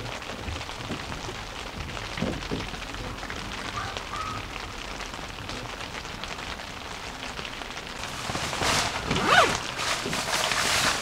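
Steady rain falling on a tent's fabric and clear vinyl window panels. From about eight seconds in, louder rustling and knocks join it as someone moves about on the bed at the tent door.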